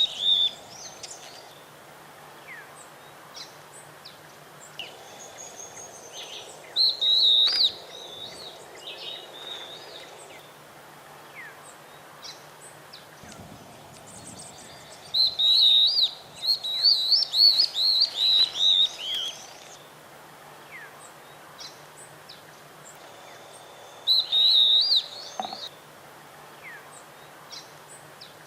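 A pair of stripe-backed antbirds singing: loud phrases of rapid, wavering high notes a second or several seconds long, repeated about four times with quieter gaps between them that hold scattered faint chirps.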